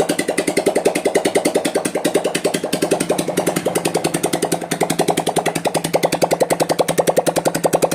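TVS Apache's single-cylinder engine idling steadily, with about ten even beats a second.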